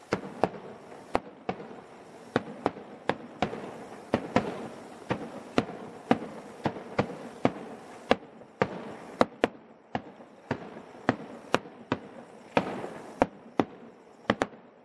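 Aerial firework shells bursting in a rapid series of sharp bangs, about two a second, with a steady crackling din between them. The barrage stops just before the end.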